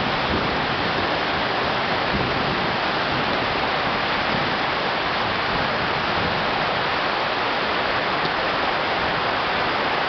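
Heavy rain pouring down steadily in a storm, an unbroken even hiss.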